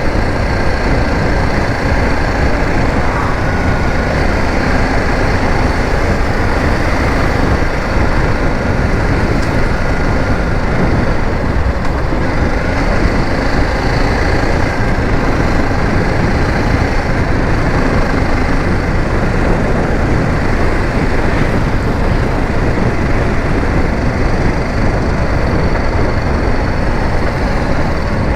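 BMW G 310 GS single-cylinder motorcycle riding along at a steady pace, its engine running under a heavy, steady rumble of wind on the microphone.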